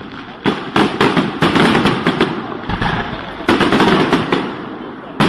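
Fireworks and firecrackers going off: a rapid, irregular run of sharp bangs, a dozen or more, with crackling between them.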